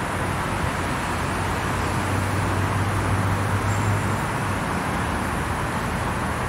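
Steady background road traffic noise, with a low engine hum that swells and fades about two to four seconds in, as a vehicle passes.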